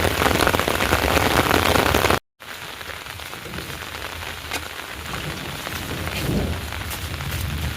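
Heavy rain falling in a dense steady hiss; about two seconds in it cuts off for a moment and resumes quieter, with individual drops ticking through the steady patter.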